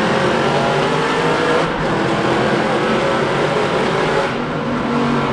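Straight-piped Aston Martin Vantage accelerating, its exhaust loud and unmuffled, with brief dips in the sound about a second and a half in and again after four seconds.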